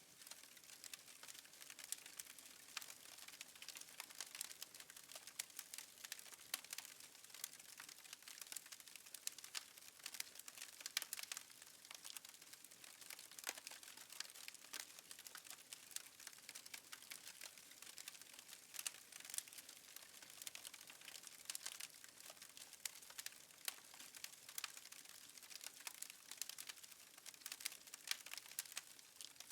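Faint fire crackling: dense, irregular small pops and snaps over a soft hiss.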